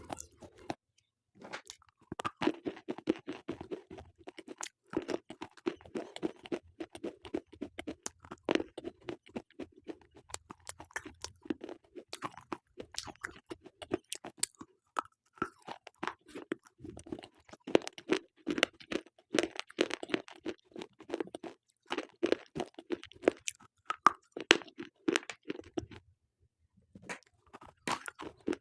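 Slate pencils being bitten and chewed close to the microphone: rapid sharp crunches and cracks, with brief pauses about a second in and again near the end.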